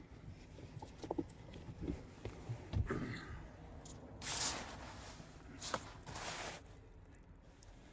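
Faint scattered clicks and knocks, then two brief rustling, hissing swells about four and six seconds in: handling noise.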